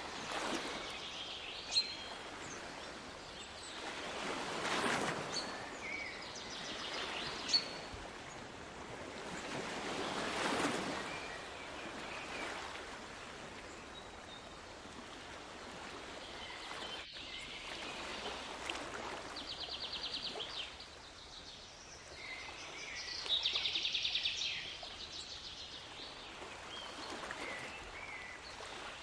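Sea waves washing ashore in two slow swells in the first half, with small birds chirping throughout and giving fast trills in the second half. Two sharp clicks stand out above the rest.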